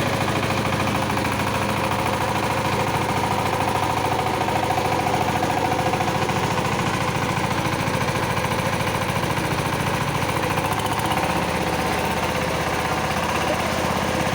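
Kirloskar power tiller's single-cylinder, water-cooled diesel engine running steadily with a fast, even knock, its note shifting slightly about eleven seconds in.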